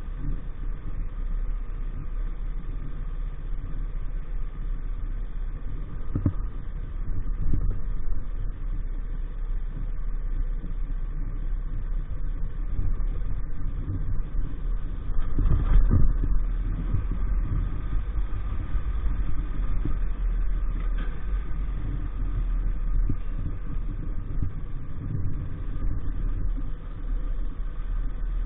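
EAYS Pro 50cc motorbike engine running steadily while riding, with a constant low rumble that swells briefly about six seconds in and again past the middle.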